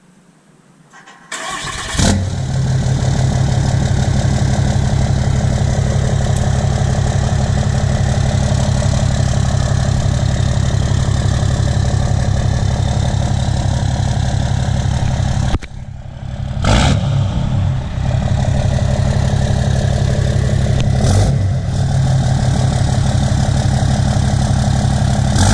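2016 Ram 2500's 6.7 Cummins inline-six turbo diesel, deleted and straight-piped through a 5-inch turbo-back exhaust with no muffler, cranking and starting about a second and a half in, then idling steadily. About two-thirds of the way through, the engine sound briefly drops and then surges.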